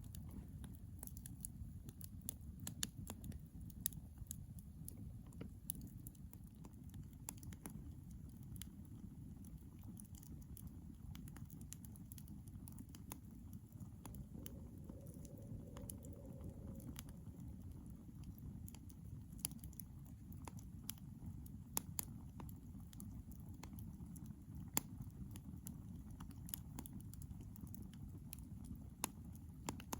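Campfire burning, wood crackling with irregular sharp pops over a steady low rumble. A faint held tone sounds for a couple of seconds about halfway through.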